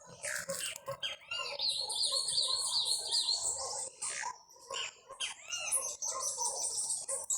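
Songbirds singing together: rapid runs of repeated high chirps and trills from more than one bird, over a lower chattering.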